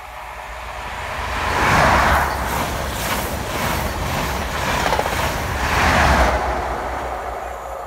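InterCity 125 High Speed Train with class 43 diesel power cars 43303 and 43366 passing at speed. The leading power car peaks about two seconds in, then the coaches' wheels clatter over the rails. The rear power car peaks again about six seconds in before the sound fades away.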